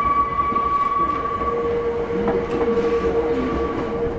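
Hankyu 7000 series electric train running across track points: rumbling wheels with a few sharp clacks, under a steady high-pitched whine.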